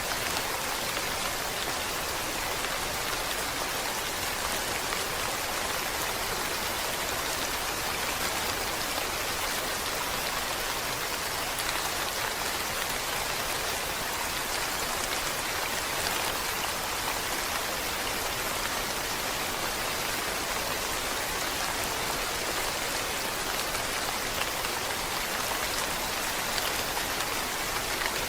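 Steady rainfall, a dense even hiss of drops pattering on a surface without a break.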